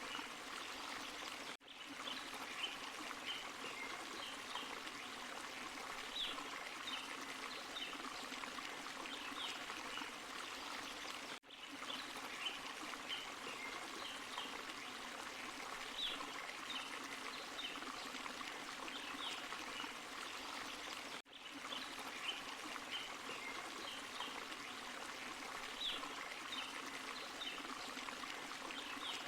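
Forest stream and small waterfall: steady rushing and trickling water. The sound dips out briefly about every ten seconds.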